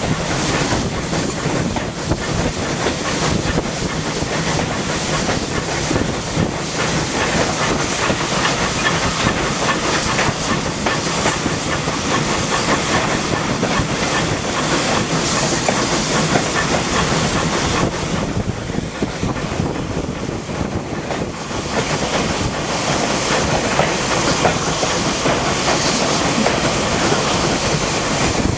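A heritage railway train running: a continuous loud rush of wheel and rail noise with clatter and hiss, easing a little about two-thirds of the way through.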